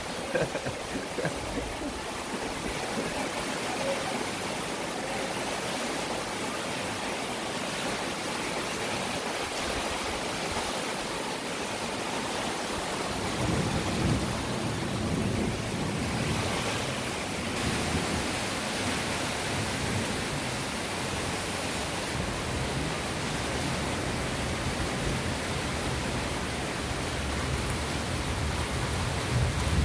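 Steady hiss of heavy rain falling. About halfway through, a low rumble joins in and continues.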